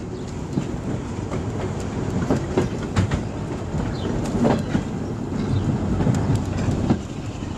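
Railway carriage riding along the track: a steady low rumble from the wheels, with irregular clicks and clatters as they pass over rail joints.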